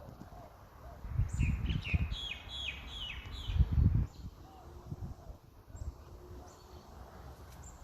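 A bird calling: a quick run of about six short, high, downward-sliding chirps, over loud low rumbling.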